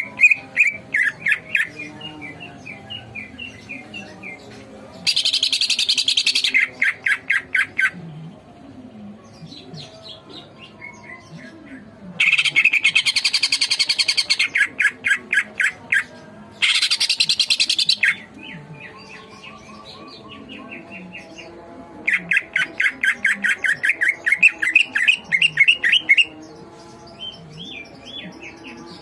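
Green leafbird (cucak ijo) singing hard: runs of quick high chirping notes alternate with loud, harsh rasping bursts, each lasting one to three seconds.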